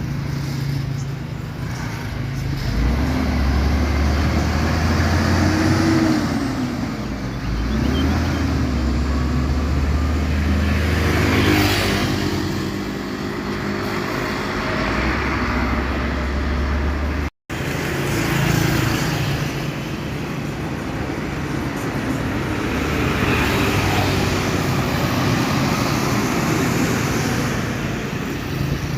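Truck engine running in road traffic, its pitch rising and falling twice in the first half. The sound drops out for an instant about seventeen seconds in, then road traffic noise carries on.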